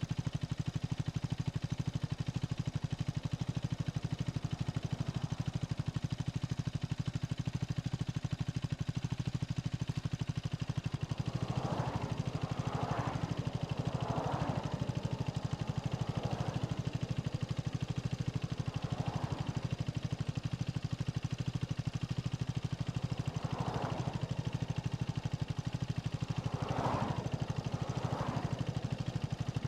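KTM Duke 250's single-cylinder engine running steadily at low, unchanging revs, its even firing pulses holding a constant pitch. From about twelve seconds in, several short, mid-pitched sounds come and go over it.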